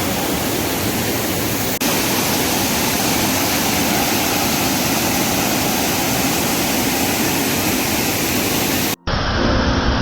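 Waterfall in high flow, a steady loud rush of water, with a brief break about two seconds in. Near the end it cuts off abruptly and music begins.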